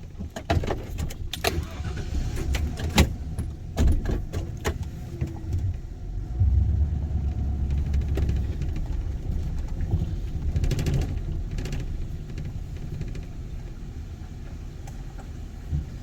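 A vehicle driving over a rough dirt road, heard from inside: a steady low rumble of engine and road, swelling for a few seconds near the middle, with scattered knocks and rattles as it jolts over bumps.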